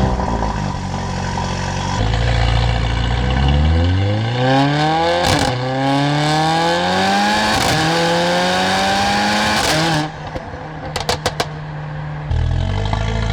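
Mercedes-AMG CLA45's turbocharged four-cylinder engine and exhaust, first running steadily, then pulling hard with the pitch climbing through two quick upshifts. The throttle closes about ten seconds in and the exhaust gives a burst of sharp crackles and pops, then settles back to a steady cruising note.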